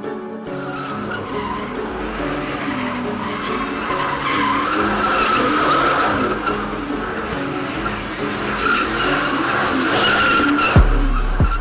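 Car tyres squealing in one long continuous screech with the engine running hard, as the car's tyres spin, over faint background music. About eleven seconds in, a sudden deep falling sound cuts in.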